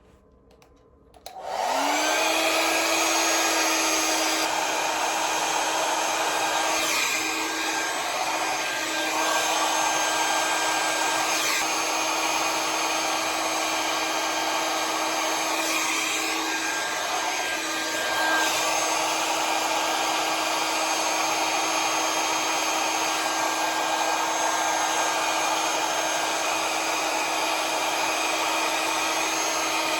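Conair hair dryer with a nozzle attachment switched on about a second and a half in. Its motor spins up and then runs steady on high, a constant rushing hum with a whine. It cuts off abruptly at the very end.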